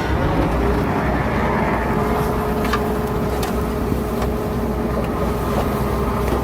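Heavy diesel earthmoving machinery running steadily, with a steady whine and a few light clanks over the engine.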